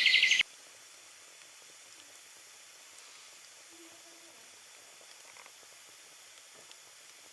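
A rapid chirping trill of birds or insects that cuts off abruptly about half a second in, followed by faint steady hiss with a few tiny ticks.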